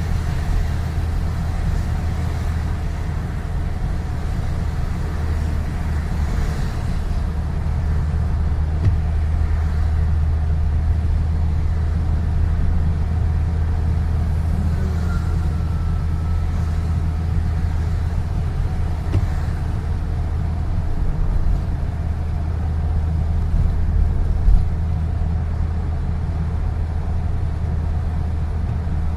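A car driving along a road, with a steady low rumble of engine and tyre noise.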